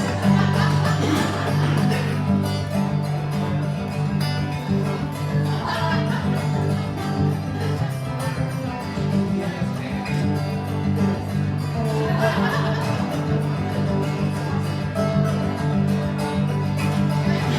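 Live music: guitar played through a song, with steady low notes and a regular rhythm.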